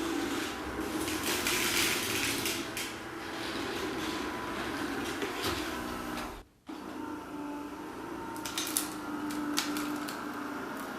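Kärcher K 65 Plus cordless sweeper running: its battery-driven brush motor hums steadily while the brush sweeps, with scattered rattling and clicking of picked-up debris. The sound drops out for a moment about six and a half seconds in, then resumes.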